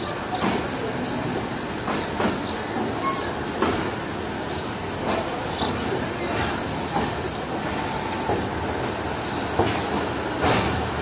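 Passenger train coach rolling slowly out of a station, heard from on board: a steady rumble of wheels with irregular clicks and clanks as they cross rail joints.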